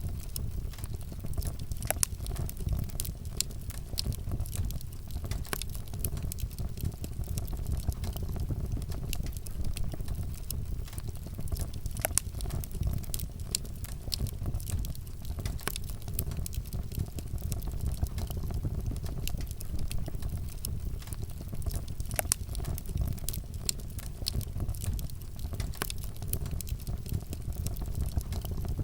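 Wood campfire burning, with frequent irregular crackles and pops over a low, steady rumble.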